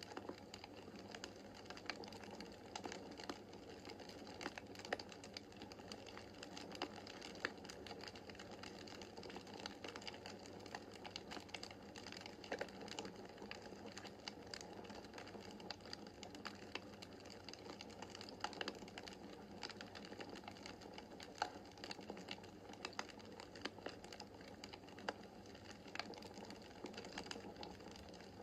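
Wood fire in a fireplace crackling: a constant soft rush of the flames with many irregular sharp pops and snaps of burning logs.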